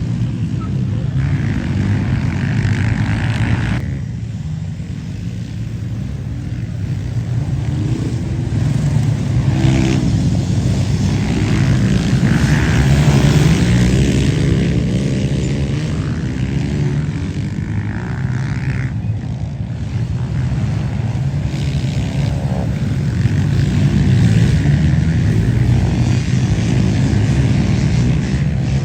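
Dirt bike engines running on a motocross track, their pitch rising and falling as they rev. The sound is loud and continuous throughout.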